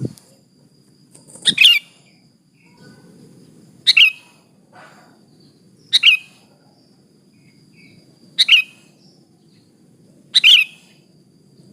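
Sooty-headed bulbul giving short, bright chirping calls, five of them about two seconds apart.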